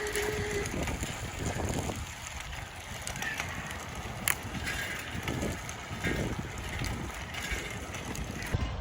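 Wind rumbling on the microphone with road noise while riding a bicycle, in uneven gusts, with a single sharp click about four seconds in.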